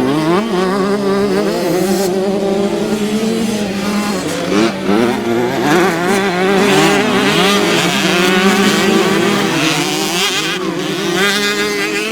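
Several small youth motocross bikes racing together, their engines revving up and down and overlapping, with the pitch dipping and climbing through gear changes and throttle.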